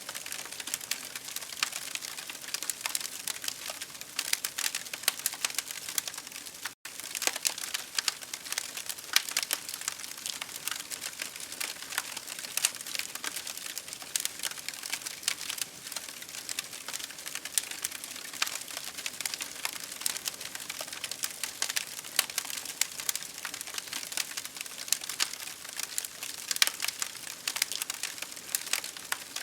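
Wood campfire crackling, with constant irregular pops and snaps over a steady hiss. The sound cuts out for an instant about seven seconds in.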